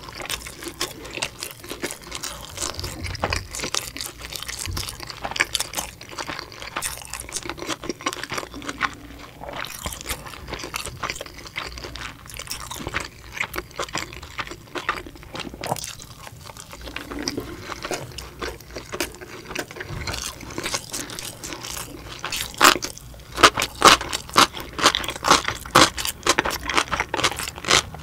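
A person chewing and crunching dumplings with the mouth close to the microphone, with soft wet chewing and sharp crunches. The crunches come louder and quicker in the last several seconds.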